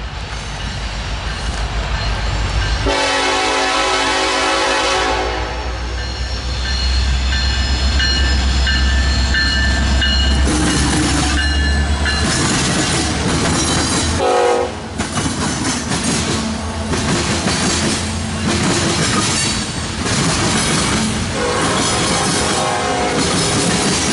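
Diesel freight train passing. The locomotive horn sounds about three seconds in, over a deep engine rumble. From about twelve seconds in, the freight cars roll by with rhythmic wheel clatter.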